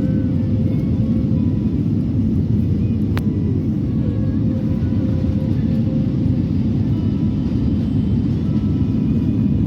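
Jet airliner cabin noise: a steady low rumble of the engines and rushing air heard from inside the passenger cabin, with a faint steady hum. There is one brief sharp click about three seconds in.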